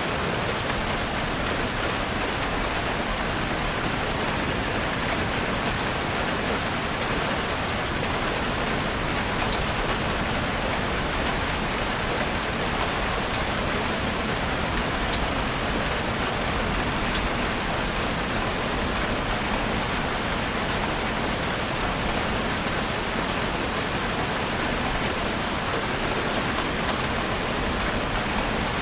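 Heavy rain falling steadily on a roof, a dense, even hiss of drops with fine scattered ticks of individual drops.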